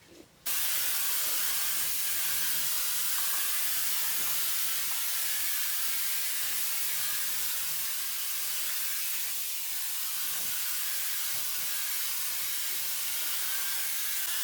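Steady, even hiss that starts abruptly about half a second in and holds at one level.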